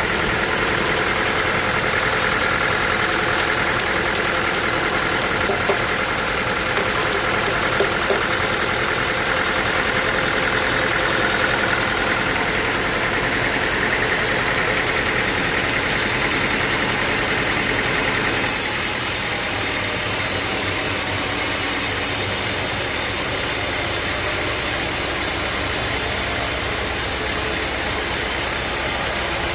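A sawmill's engine runs steadily with a higher whine over it. The whine cuts off abruptly about two-thirds of the way through, and the engine keeps running.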